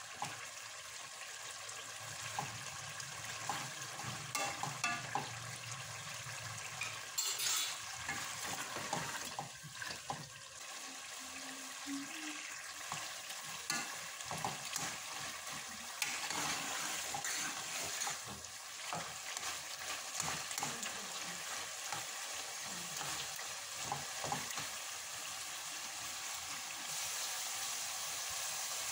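Diced turnips sizzling in oil in a metal pot while a metal spoon stirs them, scraping and clinking against the pot now and then.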